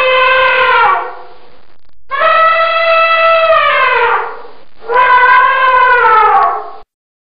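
An animal giving three long, clear, horn-like calls, each ending in a falling pitch, with short pauses between them.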